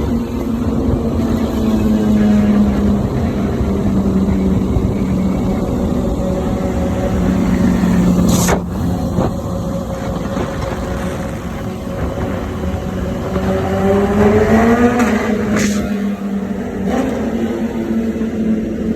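BMW S1000RR inline-four engine with an Akrapovic exhaust accelerating through the gears, its echo thrown back by tunnel walls. The engine note climbs, then breaks with a sharp crack and a drop in pitch at a quickshifter upshift about eight seconds in. It climbs again and cracks on a second upshift near sixteen seconds.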